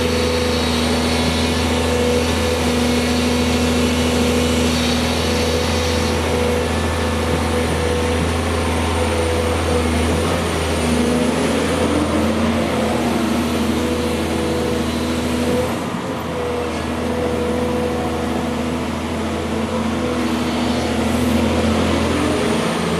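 Volvo EC210 excavator's diesel engine running steadily while the machine levels topsoil. Its pitch shifts about ten seconds in, and the sound dips briefly near sixteen seconds.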